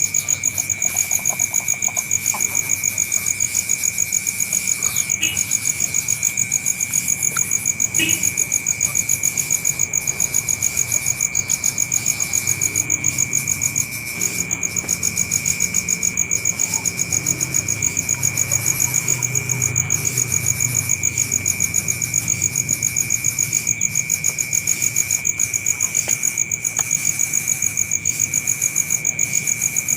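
Insects chirping in a continuous, fast, evenly pulsed trill on two steady high pitches, briefly dropping out once about halfway.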